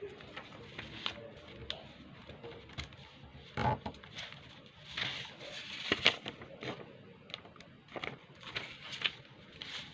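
A sheet of paper being folded by hand: irregular rustles and crinkles with sharp creasing clicks.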